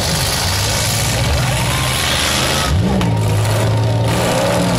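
Demolition derby cars' engines running and revving over a steady rumble, with one engine revving up sharply about three seconds in.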